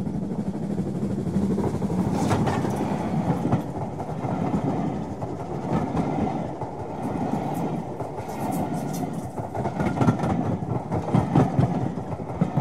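Railway carriages passing close by: a steady rumble of wheels on track with irregular sharp clicks as the wheels run over rail joints.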